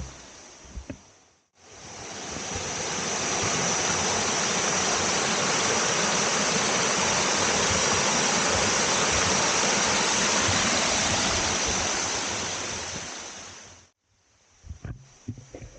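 Rushing water of a waterfall cascade: a loud, steady rush that swells in about a second and a half in and stops abruptly near the end. A few low thumps come just before and after it.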